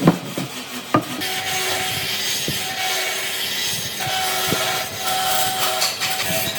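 Wood being worked by hand with a tool: a sharp knock at the start and another about a second in, then a steady scraping hiss with two more knocks.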